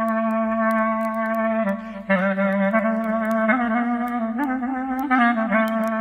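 Solo clarinet playing a slow melody: a long held low note, a short break about two seconds in, then several notes moving up and down with vibrato. Faint campfire crackling ticks along underneath.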